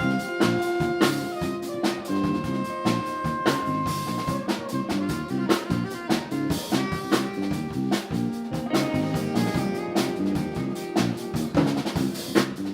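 Live band playing an instrumental groove: drum kit keeping a steady beat with snare and bass drum under bass and held melody notes from guitar or horns.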